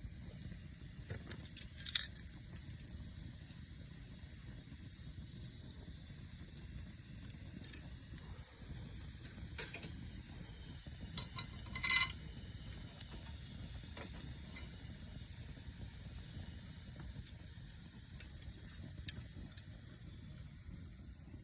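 A steady high-pitched insect drone over a low outdoor rumble, with a few sharp clicks, the loudest about 2 seconds and 12 seconds in.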